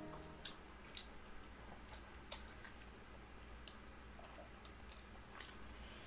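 Faint close-miked chewing of spicy Samyang instant noodles: soft wet squishes and scattered mouth clicks, with one sharper click a little over two seconds in.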